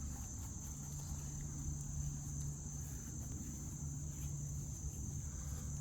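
Steady high-pitched insect chorus over a low steady hum.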